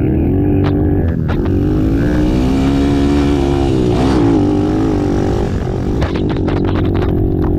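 Racing ATV engines revving, their pitch rising and falling as the throttle opens and closes, with a quick run of sharp clicks near the end.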